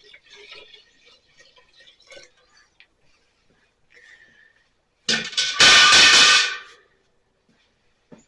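Water being poured into the cooling hopper of a Nelson Little Jumbo hit-and-miss engine: light clinks of a container being handled, then a loud rushing pour about five seconds in that lasts under two seconds.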